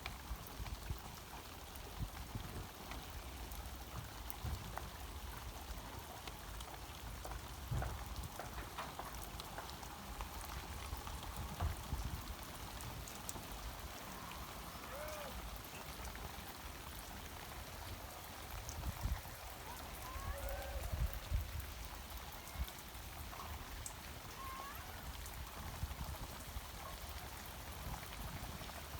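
Soft, steady patter of trickling water, with low rumbling bursts and a few faint chirps in the middle.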